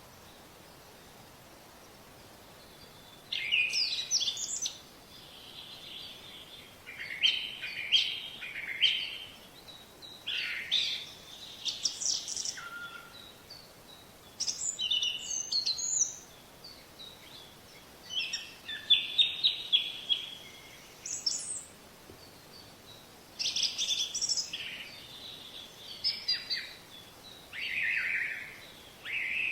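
Songbirds singing: short phrases of quick high chirps and trills, repeated every few seconds, starting about three seconds in over a faint steady hiss.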